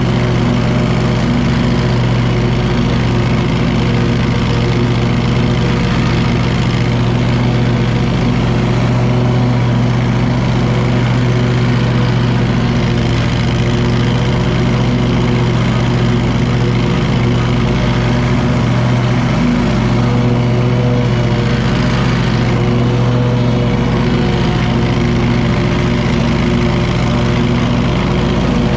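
Wright commercial lawn mower's engine running steadily while mowing, a constant loud drone with a strong low hum.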